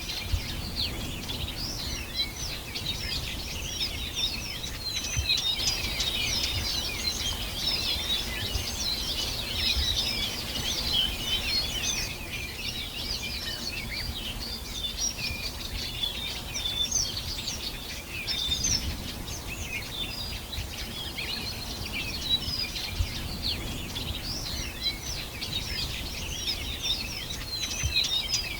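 A dense chorus of many small songbirds singing, with overlapping quick chirps and twitters throughout, over a low, steady rumble.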